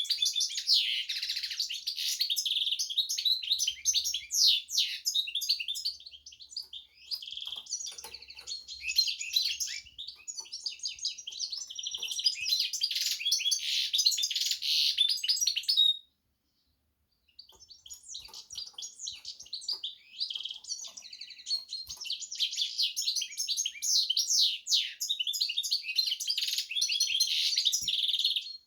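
Carduelis finch × canary hybrid (a mule) singing a long, rapid, twittering song, easing off briefly about six seconds in and breaking off completely for about a second past the halfway mark before carrying on.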